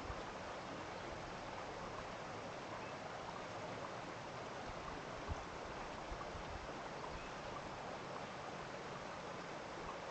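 Stream running steadily, an even rush of water, with a brief low thump about five seconds in.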